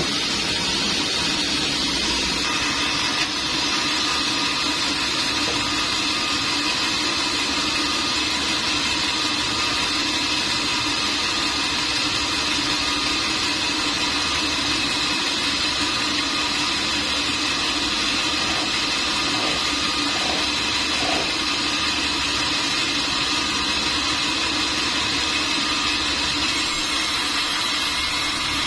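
Sawmill machinery running steadily: a constant mechanical hum with several steady tones held the whole time.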